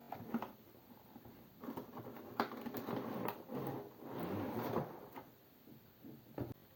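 Cardboard and plastic packaging being handled and opened, with scraping, rustling and light knocks, and a sharper knock near the end.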